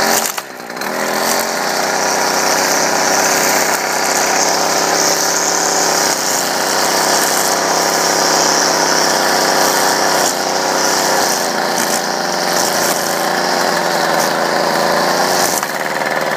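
Stihl KM56RC kombi engine, a small two-stroke, driving a string-trimmer head. It revs up, dips briefly about half a second in, then is held at high throttle, running steadily for about fifteen seconds before it is let off near the end.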